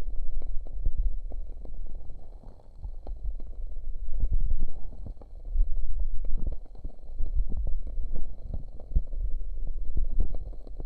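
Hands cupping over the ears of a binaural dummy-head microphone, giving a muffled low rumble that swells and fades in waves. Small crackles from a wood-wick candle come through.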